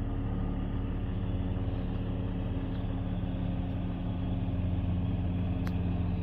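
1994 Jeep Grand Cherokee's 4.0-litre inline-six engine idling steadily, with one light click near the end.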